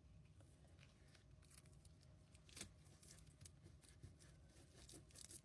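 Faint clicks and crackles of Scotch tape being pulled off and torn for a piece of burlap, with one sharper click about two and a half seconds in.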